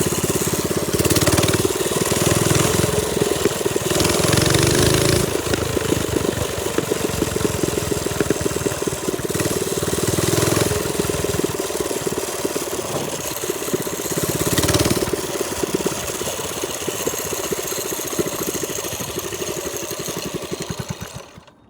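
Trailmaster Storm 200 minibike's small single-cylinder engine running while ridden, the throttle opened and eased off several times. The sound drops away sharply near the end.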